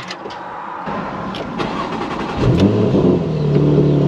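Porsche Macan GTS's twin-turbo V6 being started: a click, a short rising whirr, then the engine catches about two and a half seconds in, revs briefly and settles into a steady high idle. That fast idle is the petrol engine warming up to operating temperature.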